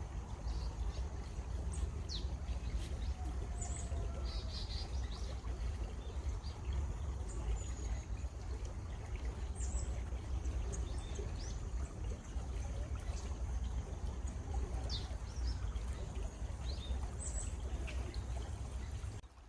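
Water running in a stream with birds chirping here and there over it. The sound drops out suddenly just before the end.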